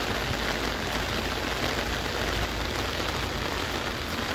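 Heavy rain falling steadily on wet pavement: an even hiss, with a low rumble underneath.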